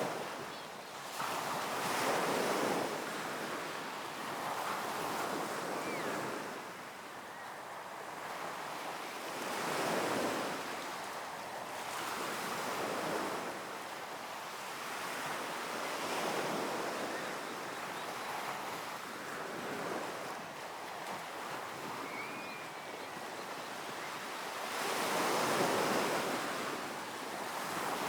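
Ocean surf: waves breaking and washing in, the rush swelling and fading every few seconds, with some wind on the microphone. A few faint short high chirps now and then.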